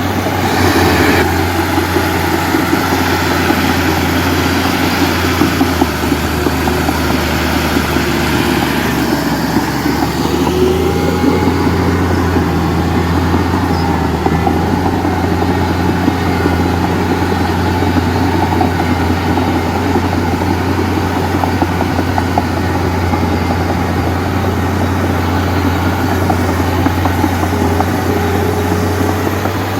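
Heavy diesel engine running steadily, a constant low hum with little change in pitch.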